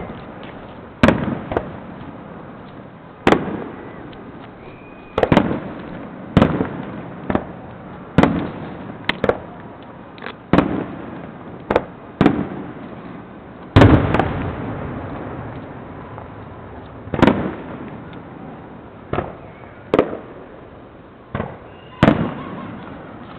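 Aerial fireworks shells bursting: about twenty sharp booms at irregular intervals, some in quick pairs, each fading into a rumbling echo. The loudest comes near the middle.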